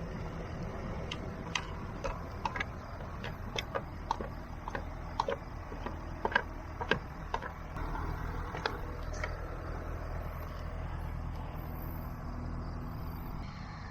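Small tractor engine running steadily at a low pitch while pulling a potato plow through the row, with a scattering of sharp clicks and knocks over the first nine seconds or so.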